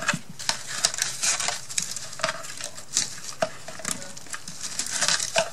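Irregular small clicks, taps and rustles as craft materials such as twine are handled on a work surface.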